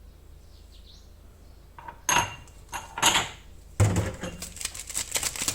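Kitchen clatter at a mixing bowl: two sharp knocks about a second apart, then a second and a half of dense rattling as dry ingredients and sugar are added to the bowl.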